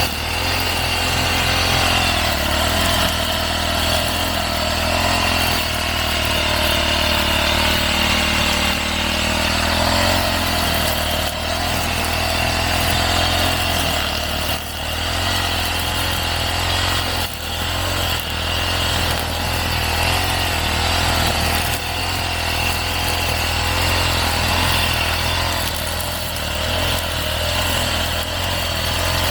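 Motorised brush cutter running steadily while cutting grass and weeds, its engine note wavering up and down as the load on the head changes.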